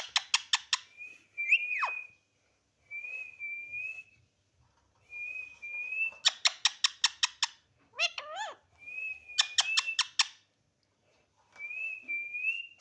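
Pet parrot whistling and chirping: short wavering whistles recur every second or two, broken by three bursts of rapid sharp chirps, about six to seven a second.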